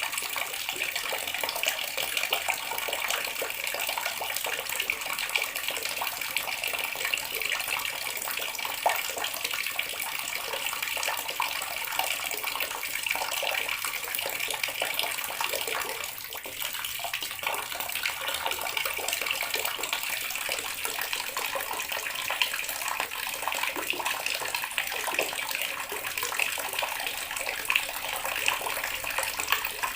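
Water running from a tap in a steady, unbroken stream, splashing continuously.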